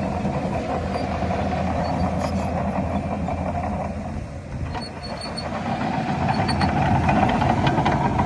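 Heavy diesel engine of earthmoving machinery running steadily. It dips slightly about halfway through, then grows louder near the end.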